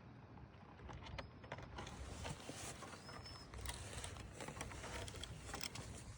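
Soft rustling with many small irregular clicks and taps, growing busier from about two seconds in, with a few faint short high whistle-like tones.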